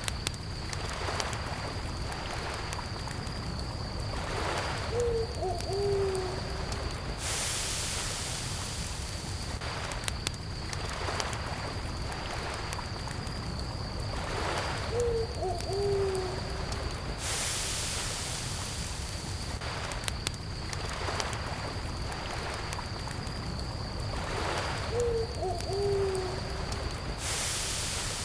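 Nature-sound mix of a crackling campfire with occasional sharp pops, a steady high cricket trill and gentle water waves washing in, in a loop that repeats about every ten seconds. A short low two-note hooting call, like an owl's, recurs with each loop.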